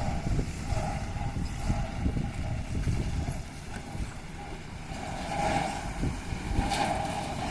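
Heavy truck driving, its engine running with a low rumble and irregular thumps, and a mid-pitched hum that swells and fades several times.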